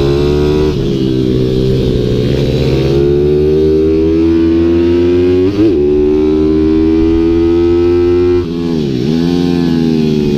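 Small single-cylinder pit bike engine heard from on the bike, pulling hard at high revs with the pitch slowly climbing. About halfway there is a brief flick in the revs, and near the end the revs drop sharply as the throttle is shut, then climb again.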